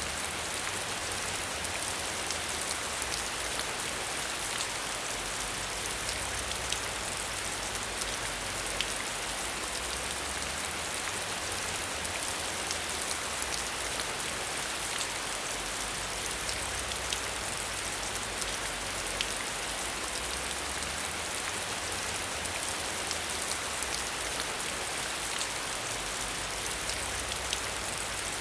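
Steady rain, a dense even hiss with scattered drop ticks, heard behind a window.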